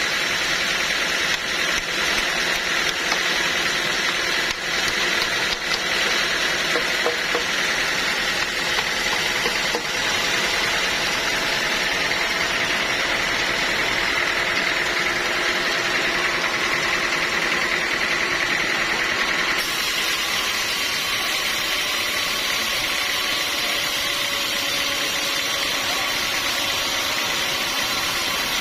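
Sawmill machinery running steadily, with a continuous high whine over a dense mechanical noise. The sound shifts abruptly about twenty seconds in.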